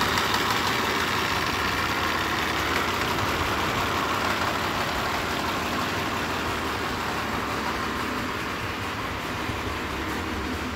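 Mitsubishi Pajero 4's engine idling steadily just after starting, freshly rebuilt with a replacement crankshaft after the original cracked.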